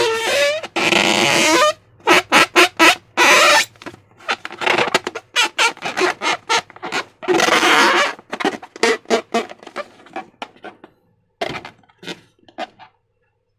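Squelching, crackling slime handled together with rubber balloons, with squeaks and fart-like squawks from the balloons, in a rapid run of short bursts that stops near the end.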